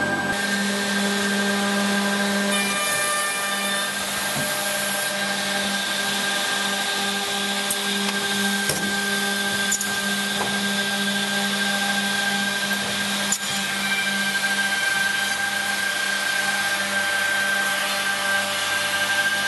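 OTT Tornado edge banding machine running: a steady motor hum with a high whine held throughout, and a few isolated clicks along the way.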